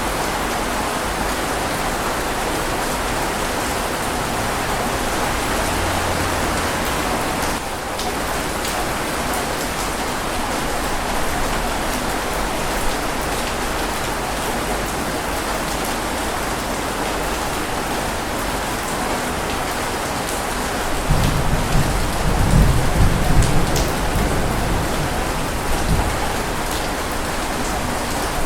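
Steady, heavy rain falling, with a low rumble of thunder from about two-thirds of the way in that swells and fades over several seconds.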